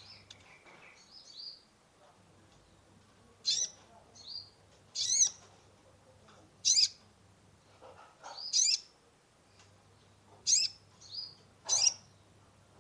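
Kolibri ninja (Van Hasselt's sunbird) giving sharp, high chirping calls, one about every one and a half seconds, with softer chirps in between, over a faint low hum.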